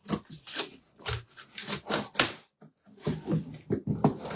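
Cardboard box and polystyrene packing being handled and pulled at, making a run of irregular short scrapes, rustles and crackles.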